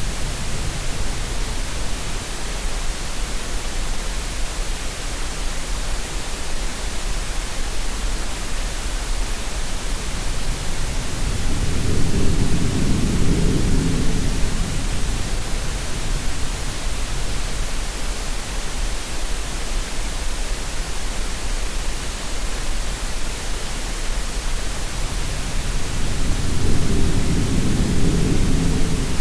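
Steady green noise hiss mixed with sea sounds: a low wave swell rises and falls twice, about fourteen seconds apart.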